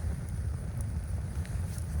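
Blizzard wind buffeting the microphone as a steady low rumble, with a few faint ticks.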